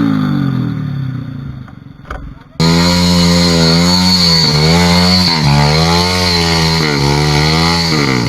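Trail dirt-bike engine revving hard under load on a steep hill climb, its pitch surging up and dropping back about every second and a half. Over the first two seconds the engine note falls and fades. About two and a half seconds in, it cuts suddenly back to full loudness.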